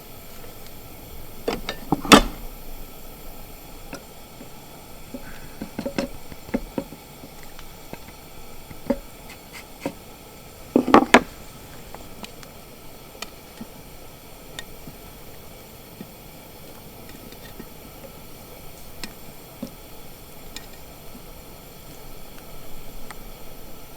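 Scattered knocks and clicks of objects being handled and set down, the loudest about two seconds in and again about eleven seconds in, over a faint steady hiss.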